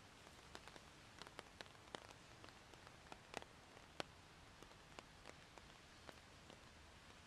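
Faint scattered raindrops ticking irregularly, a few a second, over a soft steady rain hiss.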